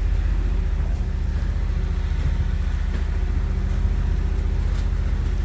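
Truck engine running steadily with a low hum as the truck drives slowly along a trail, heard from its open bed.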